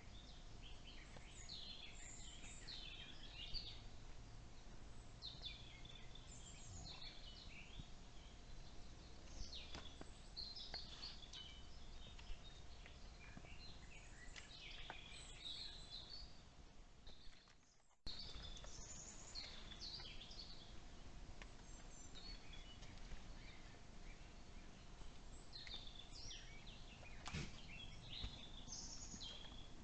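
Woodland birds singing in short chirping phrases over a steady low background hiss. The sound drops out briefly about eighteen seconds in and comes back abruptly.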